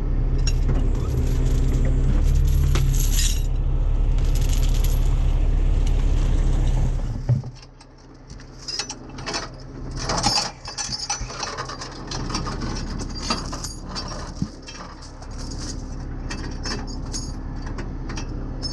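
A truck engine running steadily, shutting off about seven seconds in, followed by metal tow chains clinking and rattling as they are handled and hooked up.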